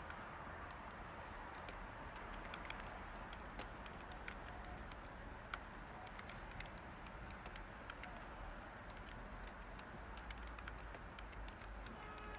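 Light typing on a computer keyboard, with faint, irregular keystroke clicks over a steady background white-noise hiss.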